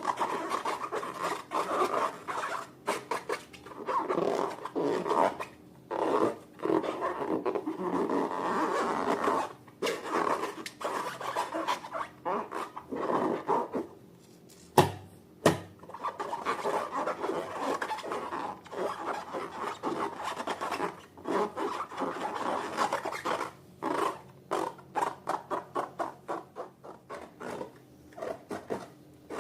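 Slime being worked and mixed: a run of sticky rubbing and scraping noises with brief pauses, and two sharp clicks about halfway through.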